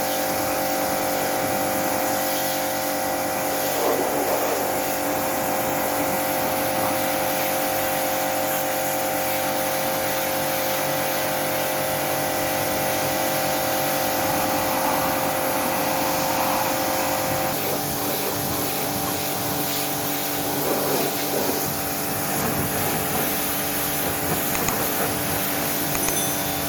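Steady mechanical hum from running machinery, a cluster of constant tones over a hiss. The pitch of the tones changes abruptly about seventeen seconds in, and there are a few light knocks near the end.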